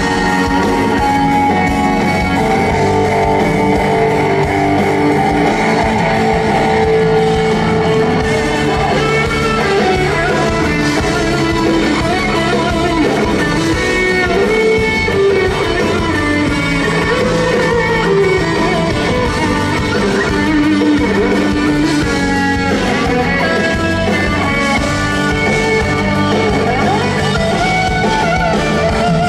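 Live band music led by guitar, playing steadily and loudly without clear singing.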